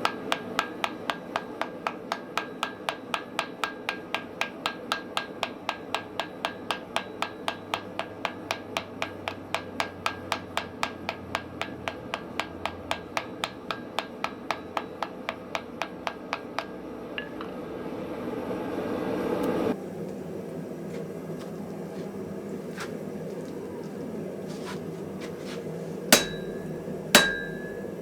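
Hammer forging hot wrought iron on an anvil, blending out a forge weld: fast, even blows at about three a second, with a steady rushing noise underneath that swells and then cuts off suddenly about twenty seconds in. After a short lull, a few single strikes near the end ring out with a clear high tone.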